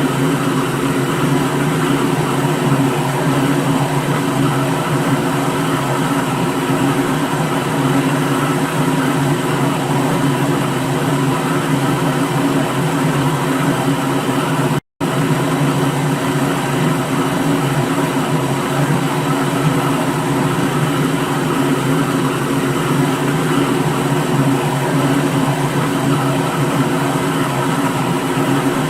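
Electric blender motor running steadily at one speed, with a steady hum over a rushing noise. It cuts out for a split second about halfway through, then carries on unchanged.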